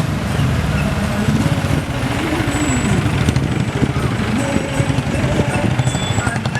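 Road traffic noise: heavy vehicle engines running steadily, with some pitch that rises and falls.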